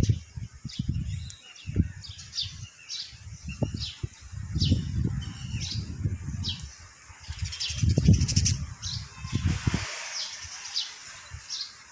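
Small birds chirping over and over, short high falling chirps about twice a second, with a buzzy trill near the middle. Under them runs an uneven low rumble that comes and goes.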